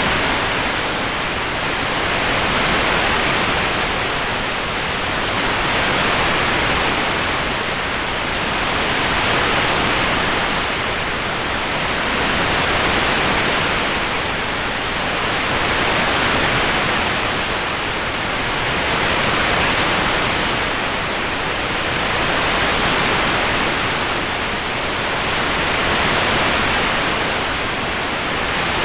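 Rain-sound track heard as a steady, static-like hiss with no separate drops, swelling and easing gently about every three seconds.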